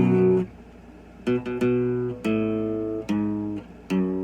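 Acoustic guitar playing chords with no singing. The first chord rings and cuts off about half a second in, then after a short lull several strummed chords follow, each ringing on.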